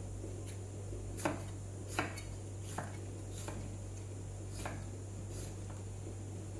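Kitchen utensils and dishes knocking and clinking during food preparation: about six light, separate knocks, the two loudest in the first two seconds, over a steady low hum.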